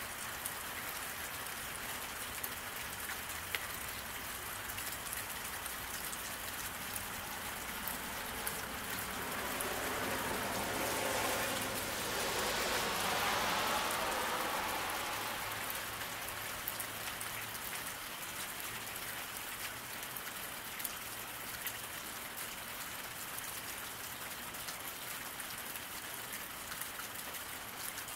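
Steady rain falling on a road, with fine scattered drop ticks. Around the middle, a passing car's tyres hiss on the wet road, swelling to a peak and fading away over several seconds.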